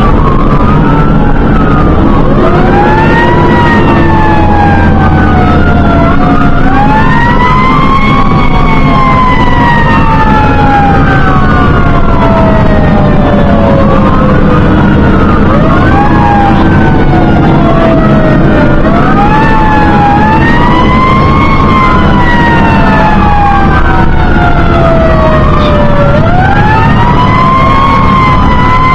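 Fire engine sirens wailing on an emergency run: several overlapping tones that each rise quickly and fall slowly, repeating every few seconds, over the steady drone of the truck's engine.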